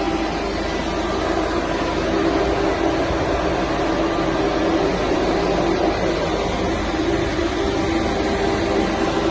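Steady, unchanging mechanical hum from a Renault Master refrigerated Luton van running at a standstill.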